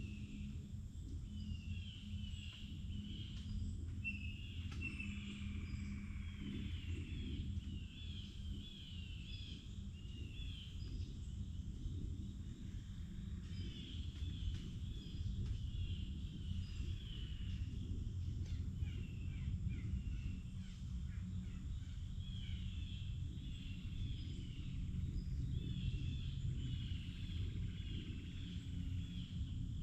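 Forest songbirds singing, many short repeated chirping phrases at high pitch, over a steady low rumble.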